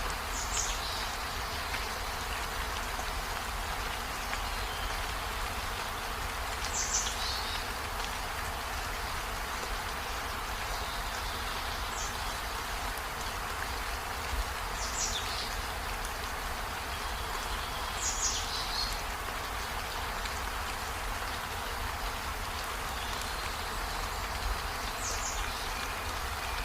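Steady rain falling, a continuous even hiss. Over it, about six times at intervals of a few seconds, a short high call sweeps downward in pitch.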